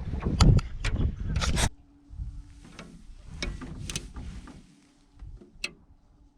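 Wind buffeting the microphone with sharp clicks and knocks, cutting off abruptly after about a second and a half; then quieter scattered clicks and knocks over a faint steady hum.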